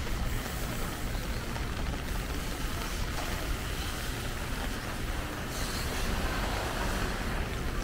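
Heavy rain pouring steadily, a dense even hiss over a low rumble, swelling slightly about two-thirds of the way through.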